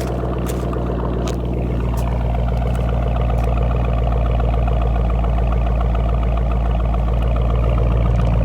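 2006 Ford Mustang with a Roush Extreme axle-back exhaust idling steadily, with a deep exhaust note and a few light clicks near the start. It gets slightly louder about two seconds in.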